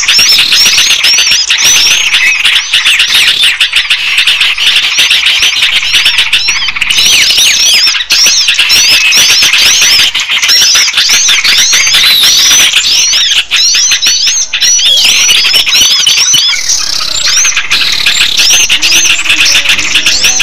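A dense, loud chorus of many small songbirds chirping and squeaking over one another without a break: a bird-trapping lure recording meant to draw small birds in.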